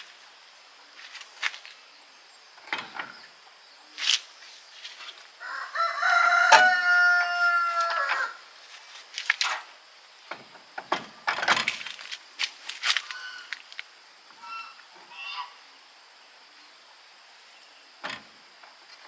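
A rooster crowing once, a single call of about two and a half seconds near the middle. Scattered sharp clinks and knocks, like metal tools on parts, come before and after it.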